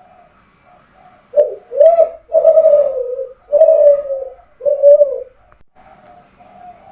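Kelantan-strain spotted dove (derkuku) cooing: a phrase of five loud, low coos starting about a second and a half in, with fainter cooing before and after it.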